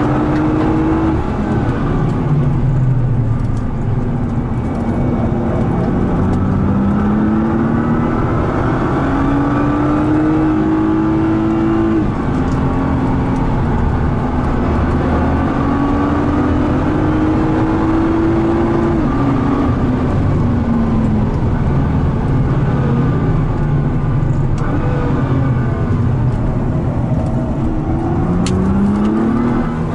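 The 2013 Nissan GT-R R35's twin-turbo V6, heard from inside the cabin under hard acceleration on track. The revs climb in long pulls and drop sharply at each gear change, about twelve and nineteen seconds in, over steady road and tyre noise. Another climb starts near the end.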